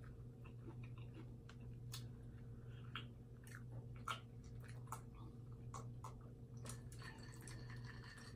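Faint eating sounds at a seafood boil: chewing and scattered small clicks and ticks from handling shellfish, over a low steady hum.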